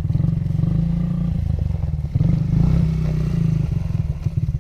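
Dirt bike engine running with a fast, even firing beat, revved up twice and easing back between.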